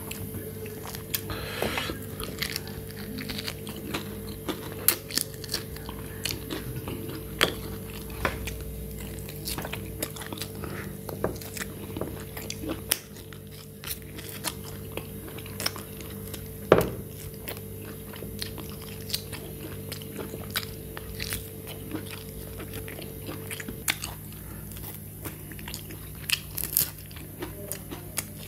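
Chewing and gnawing on roasted goat ribs: irregular sharp bites and crunches, the loudest about two-thirds of the way through, over a faint steady hum.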